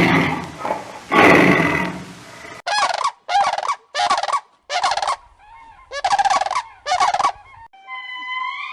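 Turkey gobbling: six short, warbling calls in quick succession, following the tail of a deep animal roar in the first two seconds. Near the end a steady tone with gliding pitch begins.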